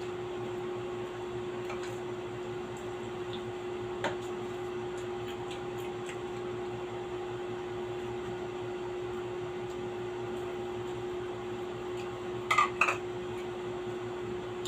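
Steady mechanical hum of a running appliance with one constant tone, with faint eating and dish sounds: a single click about four seconds in and two short sharp sounds near the end.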